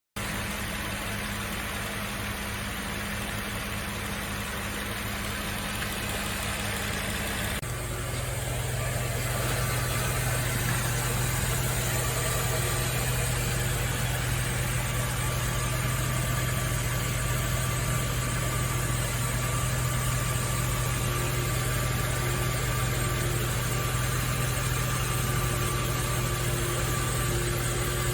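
Nissan Fairlady Z (Z33) VQ35DE V6 engine idling steadily after an engine overhaul. About eight seconds in, its steady note changes abruptly to a lower, slightly louder hum.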